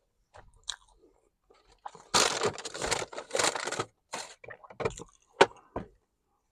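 Close-up chewing of a bite of fried chicken biscuit sandwich. A dense stretch of crunching starts about two seconds in and lasts about two seconds, followed by scattered smaller crunches and clicks.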